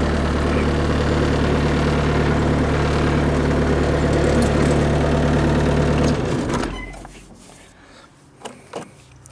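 1999 Bobcat X331 mini excavator's four-cylinder diesel engine running steadily, then shut off about six seconds in, winding down within half a second. Two light clicks follow near the end.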